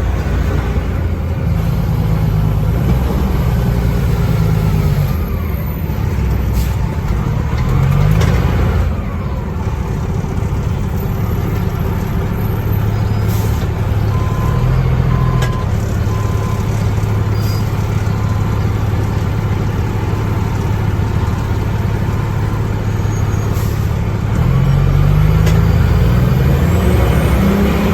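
Spartan fire engine's diesel engine running as the truck drives, heard from inside the cab. The engine pitch climbs as it accelerates about eight seconds in and again near the end.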